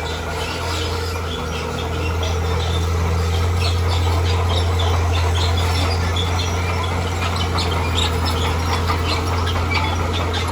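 Heavy diesel earthmoving machine running steadily, its low drone rising a little about two seconds in, with many short high chirps scattered over it.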